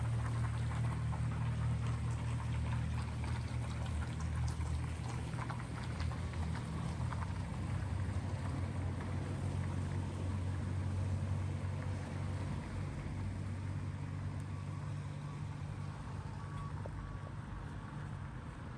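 A vehicle engine running steadily: a low, even hum that fades slowly near the end, with scattered light ticks of dripping water over it.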